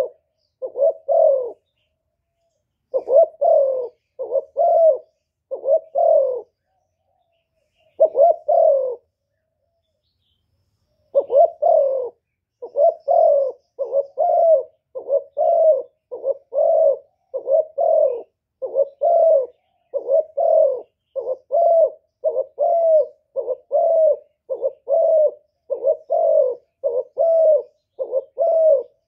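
Spotted dove cooing, the call of a decoy dove used to lure wild doves: short repeated coos in runs, with pauses about two seconds in and around the ten-second mark, then a steady run of a little more than one coo a second.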